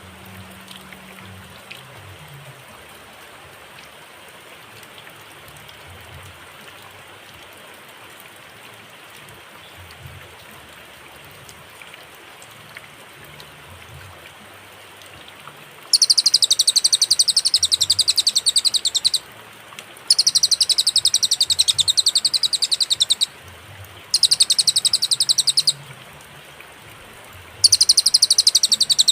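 Cililin song: after about fifteen seconds of steady faint hiss, a loud, high, very rapid trill of quickly repeated notes starts, coming in four bursts of about three seconds each with short pauses between them.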